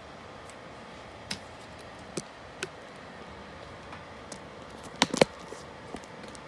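Hard plastic and metal desktop-computer parts being handled and fitted: a few scattered sharp clicks, then a louder quick clatter of two or three knocks about five seconds in.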